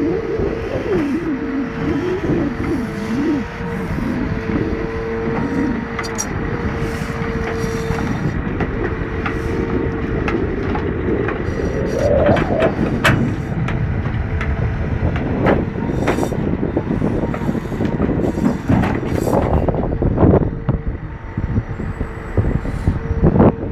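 Scania 164C's V8 engine running under load to drive the loader crane's hydraulics. The pump's tone wavers and then holds steady, and rises about twelve seconds in. Several sharp knocks of logs being handled come through the second half.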